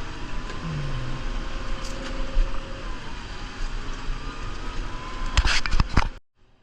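New Holland Powerstar 75 diesel tractor running steadily while plowing snow, with a quick run of sharp knocks near the end; the sound then cuts off abruptly.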